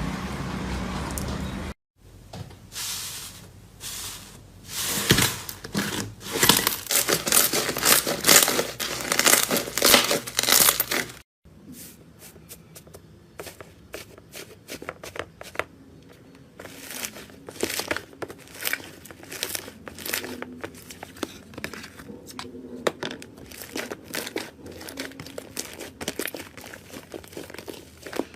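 Slime being squished and stretched by hand, a dense run of crackling, popping clicks that breaks off about eleven seconds in and carries on more sparsely after the cut. A short, steadier sound at the very start ends in an abrupt cut.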